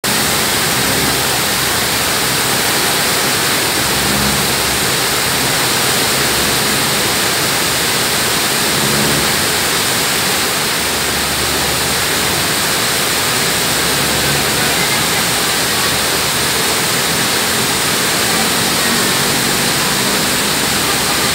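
Heavy tropical downpour, a loud, steady rushing hiss of rain pouring onto the street and the wet pavement.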